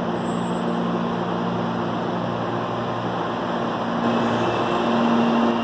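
CPTM electric commuter train running along the station tracks: a steady rolling rumble and motor hum, growing louder about four seconds in as the train draws level.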